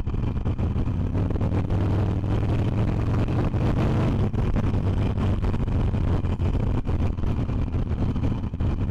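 Harley-Davidson Iron 883's air-cooled V-twin engine running at a steady pace while the motorcycle is ridden.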